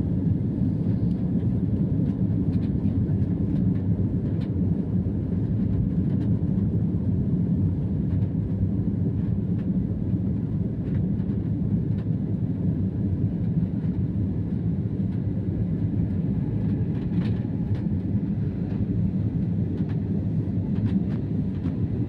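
Airbus A320 cabin noise: a steady, even low rumble of the airliner's engines and airflow, with a few faint light clicks or rattles.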